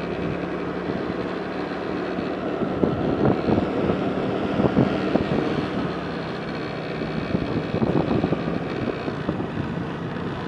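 Vehicle engine running steadily while driving along a road, with wind buffeting the microphone and occasional knocks from the ride.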